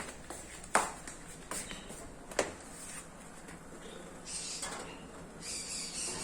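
Three sharp knocks about a second apart, then two short spells of soft, high hissing near the end.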